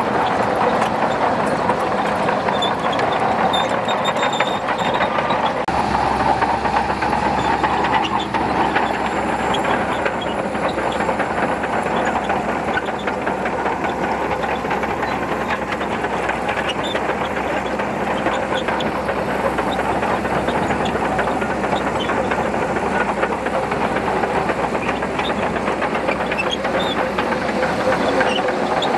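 Shantui DH17C2 crawler bulldozer at work pushing sand: its diesel engine runs steadily under a continuous clatter from its steel tracks. A deeper low rumble comes in about six seconds in.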